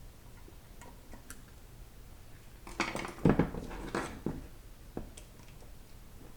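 Small metal parts of a 4L60E transmission clinking and knocking against each other on a workbench: a few faint ticks, then a cluster of clicks and clatter about three to four seconds in and one more click about five seconds in.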